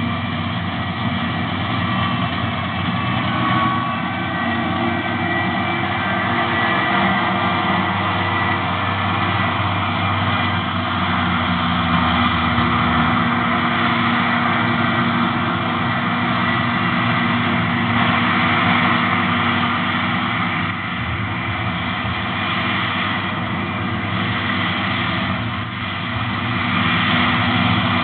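Diesel engine of large farm machinery running steadily, a constant drone with several steady tones and no breaks.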